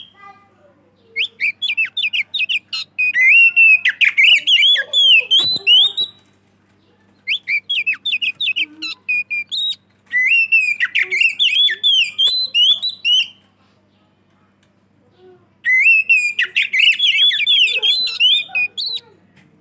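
Oriental magpie-robin (kacer) in full song: four bursts of rapid, varied whistled phrases, separated by short pauses.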